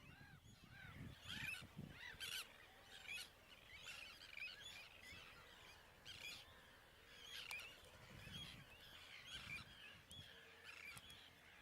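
Faint seabird colony: many birds calling in short, overlapping cries.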